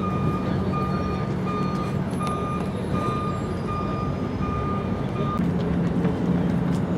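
A vehicle's reversing alarm beeping steadily, about one and a half beeps a second, over a low steady engine hum; the beeping stops about five seconds in while the hum runs on.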